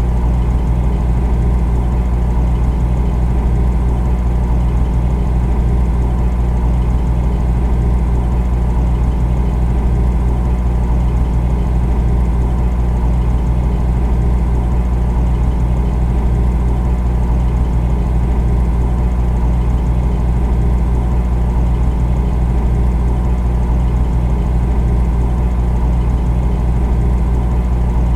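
Refrigerator running with a steady low hum that does not change.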